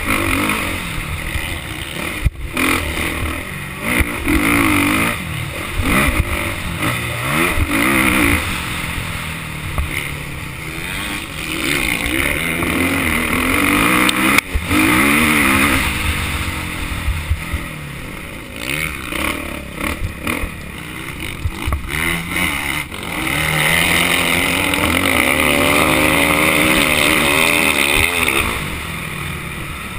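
Motocross motorcycle engine revving up and down as the bike is ridden, with the pitch climbing and dropping repeatedly. There are a few brief cuts in the engine note, and it holds high and steady for several seconds near the end.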